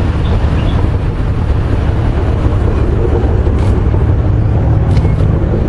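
MAN 32.281 tipper truck's six-cylinder diesel engine running steadily with a deep low rumble.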